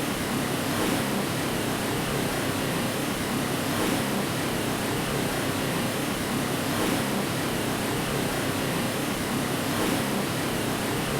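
Steady white noise: an even, unchanging hiss with a slightly deeper, rushing low end, played as a sleep aid for a baby.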